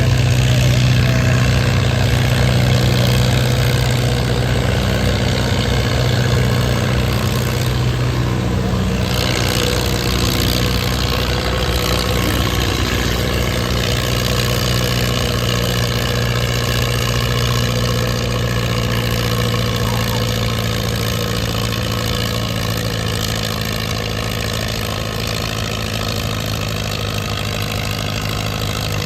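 Farm tractor engine running steadily at one speed, slowly growing quieter over the stretch.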